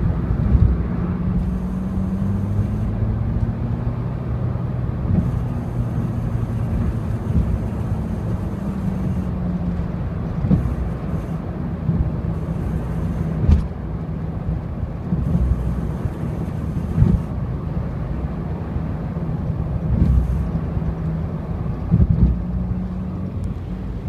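Honda CR-Z on the move: steady engine hum and road rumble, with several short jolts as the car goes over bumps.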